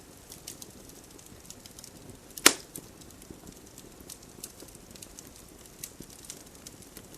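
Campfire crackling, with scattered small ticks and one loud sharp pop about two and a half seconds in.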